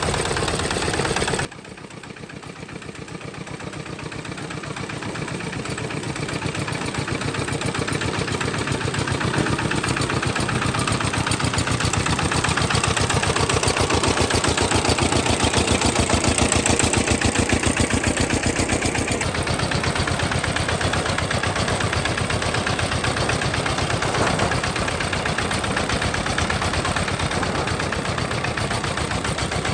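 Homemade tractor's engine running with a rapid, steady chugging beat. The level drops suddenly about a second and a half in, then the engine grows steadily louder over the next dozen or so seconds before easing off slightly.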